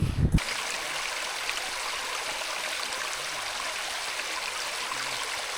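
Steady rush of running water, an even hiss with no low rumble. It starts abruptly about half a second in, where a louder sound cuts off.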